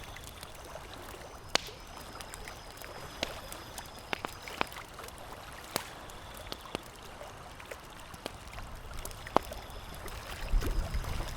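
Campfire crackling, with irregular sharp pops over a steady water sound. A low rumble swells near the end.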